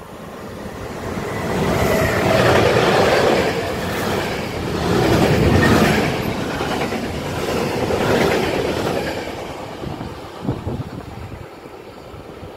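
Freight train hauled by an electric locomotive passing at speed, its covered sliding-wall wagons rumbling and clattering over the rails. It swells as it approaches, is loudest for several seconds with a few surges, then fades away.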